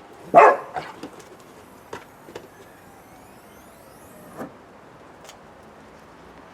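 A loud metallic clank about half a second in, then a few lighter clicks and knocks of tools and car parts being handled during suspension work.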